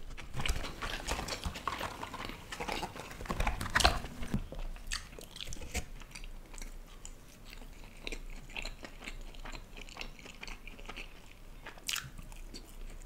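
Close-up eating of fried restaurant starters: biting and chewing, with a run of sharp crunches in the first four seconds, the loudest about four seconds in, then quieter chewing.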